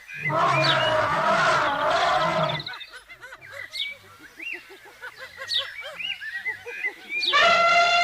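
A loud, rough animal call lasting about two and a half seconds, then a quieter stretch of many short bird chirps. A clear pitched tone starts near the end.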